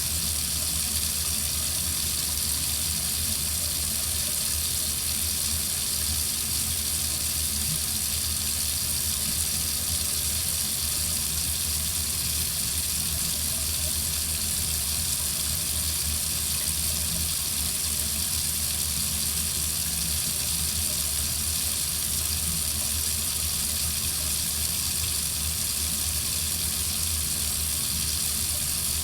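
Water faucet running steadily into a sink: an even, unbroken rush of water with a low rumble underneath.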